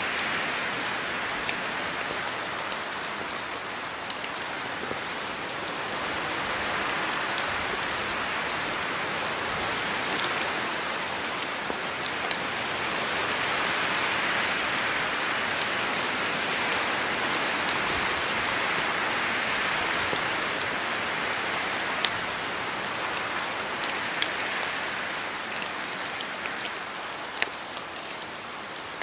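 Steady rain falling, a dense hiss that swells and eases every few seconds, with scattered sharp ticks of single drops striking.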